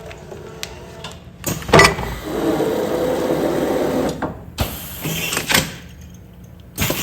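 Commercial food-container sealing machine working through a sealing cycle: sharp mechanical knocks, then a motor running steadily for about two seconds, then more knocks, in a repeating pattern.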